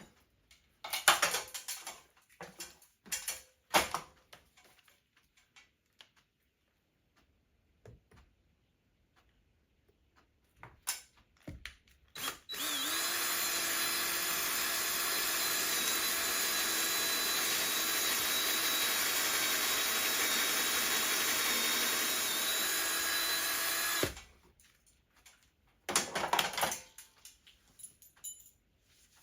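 Power drill running steadily at constant speed for about eleven seconds before stopping abruptly, drilling to mount a spring balancer. Scattered knocks and clicks of handling come before it, and a few more after it.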